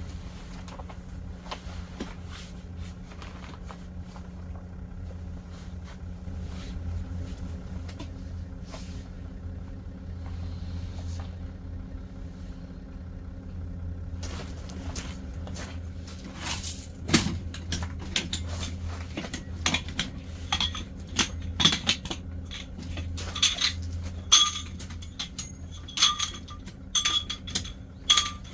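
Metal cookware and utensils clinking and tapping against each other, with short ringing notes, thickening from about halfway through, over a steady low hum.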